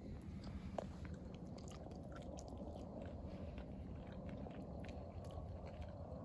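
A man chewing a mouthful of baked catfish: faint, soft mouth clicks and smacks, scattered irregularly.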